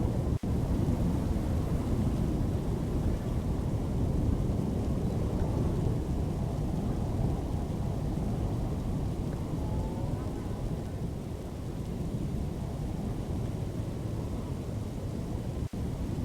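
Thunderstorm: a continuous deep rumble with rain, broken by two brief dropouts, about half a second in and near the end.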